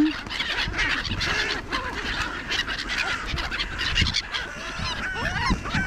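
A flock of wild birds calling over one another in a dense, noisy chatter as they crowd in on food put down for them.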